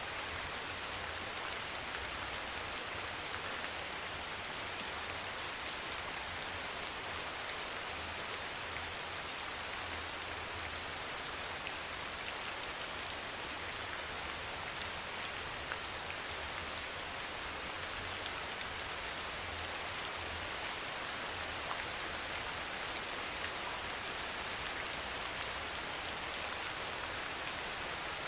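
Steady soft rain pattering on a surface, an even hiss with scattered small drop ticks. Underneath runs a low hum that swells and fades unevenly.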